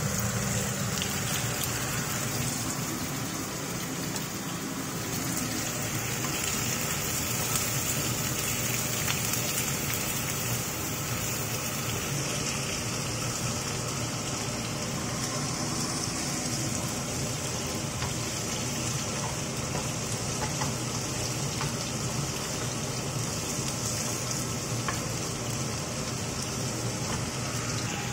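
Steady cooking noise over a gas burner: a pot of spaghetti at a rolling boil, then, about halfway through, shell-on prawns sizzling in oil in a frying pan.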